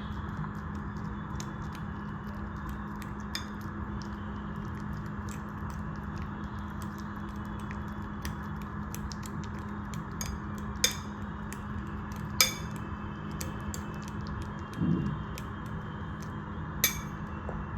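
Kitchen utensils and dishes being handled: light taps and ticks, with three sharper ringing clinks of metal or glass, over a steady low hum.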